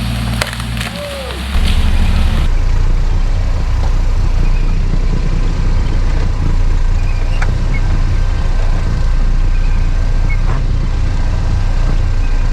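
Off-road 4x4 vehicle's engine running with a low rumble. About one and a half seconds in, it suddenly gets much louder and stays a dense, heavy rumble.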